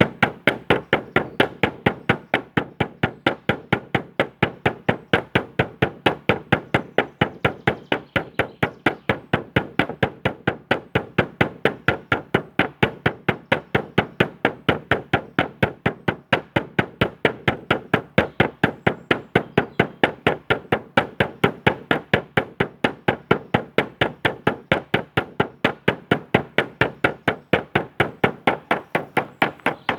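A drum beaten in a steady, even rhythm of about three to four beats a second, each beat equally strong.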